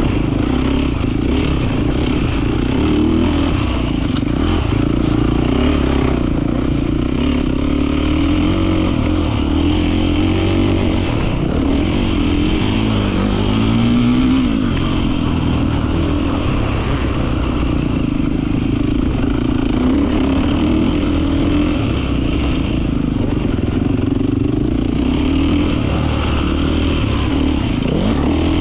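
Beta 450 RX motocross bike's four-stroke single-cylinder engine running hard, its revs rising and falling continuously, with a clear drop and climb in pitch about halfway through.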